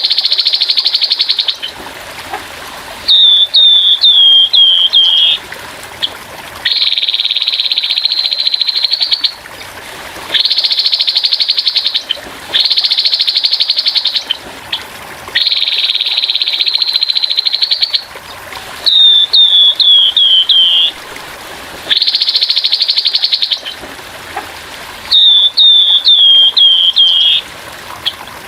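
Grey-headed babbler (tepus kepala abu) singing its harsh song: rapid rattling trills about two seconds long, alternating with runs of five or six short down-slurred notes that step lower in pitch. Trickling water runs underneath between the phrases.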